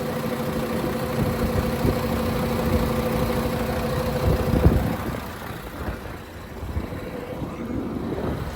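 Diesel engine of a 2010 International Prostar truck idling steadily. About four and a half seconds in there is a knock, and the engine sound then drops lower for a couple of seconds.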